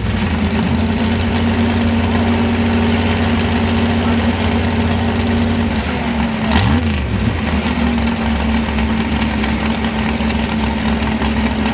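Sand-drag race vehicle's engine running steadily at a held pitch. About six and a half seconds in, the pitch dips and climbs back with a short burst.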